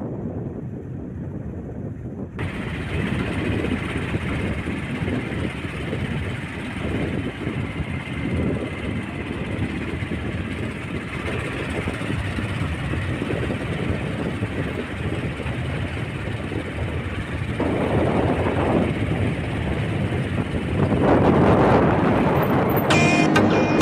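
Steady rumble and road noise of a moving vehicle, getting louder over the last several seconds.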